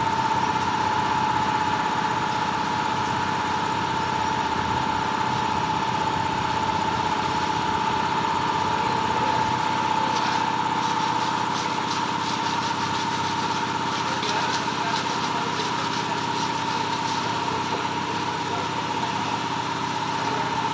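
A machine's motor running steadily with a high, even whine after spinning up just before, with faint light clicks in the middle of the stretch.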